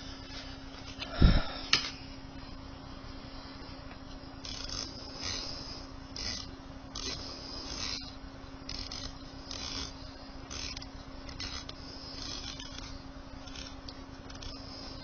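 A heavy thump about a second in, then a sharp click: handling noise from the air rifle between shots. After that, faint intermittent hissy sounds over a steady low hum.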